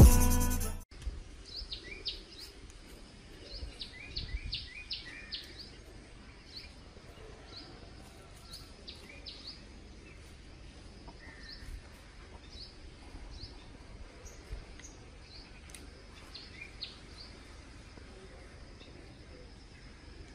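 Small birds chirping in the background: short, high chirps that sweep downward, in a busy cluster a few seconds in and scattered after, over a faint outdoor hiss. Intro music cuts off abruptly in the first second.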